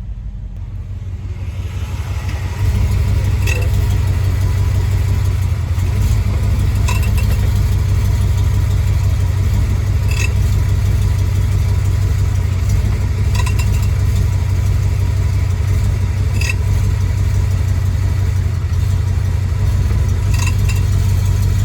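BMW X5 E53 4.8iS V8 engine idling while the automatic gearbox is shifted back and forth between reverse and drive. A short metallic clunk comes with the shifts, six times, about every three seconds. The owner suspects a worn driveshaft universal joint (cross), which caused the same noise before.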